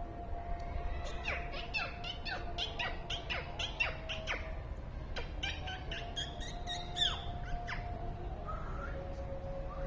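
Birds chirping: a quick run of short, downward-sweeping chirps starting about a second in and dying away near the end.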